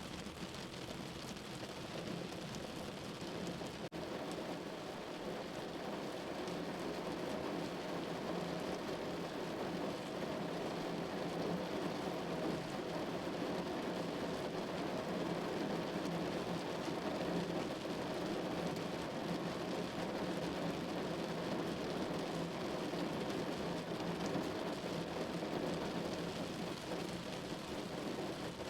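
Steady rain falling, an even rushing hiss that grows a little louder over the first several seconds.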